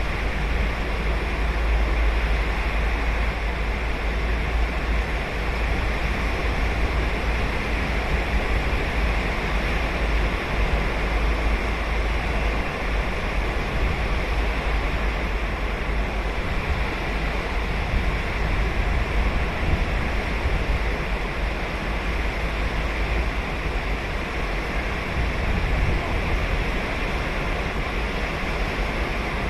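Ocean surf washing onto a sandy beach, a steady rushing hiss with a deep low rumble beneath it and no distinct single breakers standing out.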